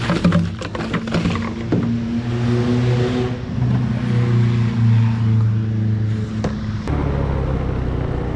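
A few sharp knocks and clatter, then a motor vehicle engine running steadily with an even hum whose pitch shifts lower near the end.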